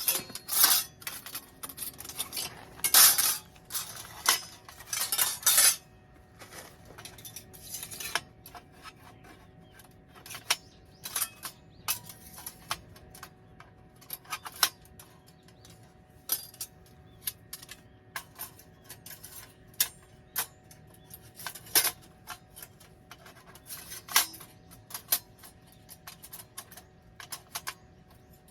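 Metal camp gear being handled: a run of clattering and scraping for the first several seconds, then scattered light clinks and taps.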